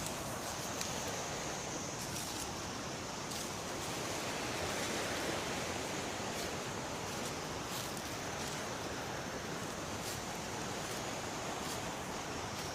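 Steady rush of flowing river water, with a few faint high clicks.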